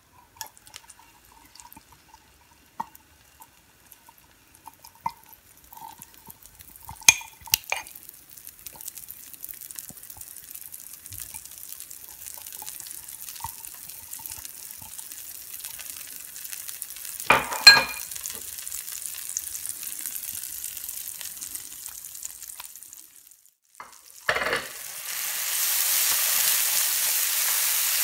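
Thick spice marinade paste frying in hot oil in a pan, a sizzle building as it goes in and is stirred, with light scraping clicks of a spoon and a few sharp knocks, the loudest about halfway through. Near the end the sizzle turns much louder and steady as the paste is spread across the hot pan.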